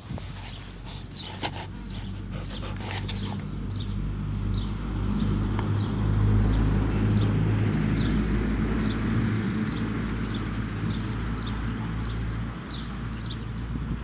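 A small bird chirping over and over, short falling chirps about every half second, over a low rumbling noise that swells through the middle. A few sharp clicks or steps come in the first few seconds.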